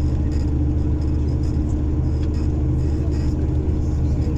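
A bus running along the road, heard from inside the passenger cabin: a steady low engine and road drone.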